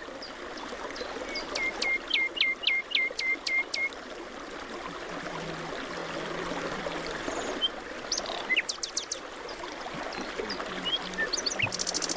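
Wild birds calling over a steady background hiss: a quick series of about eight sharp, downward-sweeping notes in the first few seconds, then scattered short chirps.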